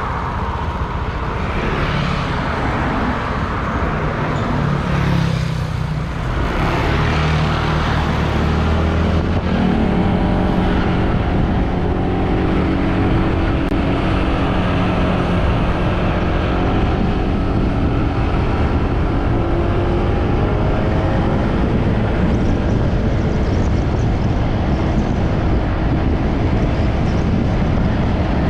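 Motorbike engine running under way, with heavy wind rush over the microphone. The engine note climbs over the first several seconds as the bike picks up speed, then holds steady at cruising speed.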